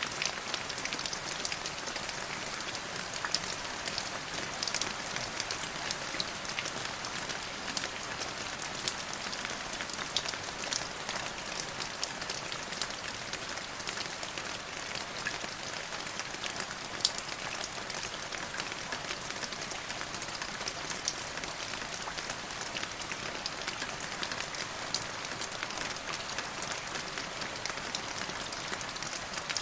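Steady rain falling, many close drops pattering and ticking over an even hiss, with one sharper drop about 17 seconds in.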